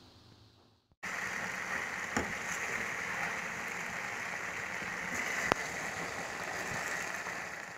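After a near-silent first second, chicken pieces in gravy and oil start sizzling steadily in a pan on the stove. A spoon stirring them clicks against the pan twice.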